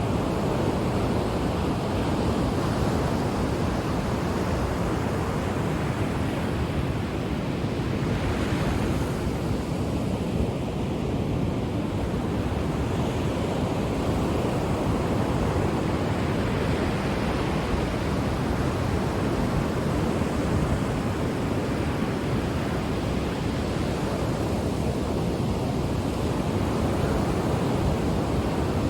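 Ocean surf breaking and washing on the shore in a continuous rush, swelling and easing slowly, with wind on the microphone.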